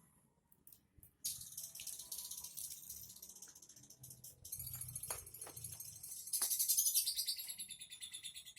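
Caged songbird singing rapid, high-pitched trills, starting about a second in and loudest from about six seconds in.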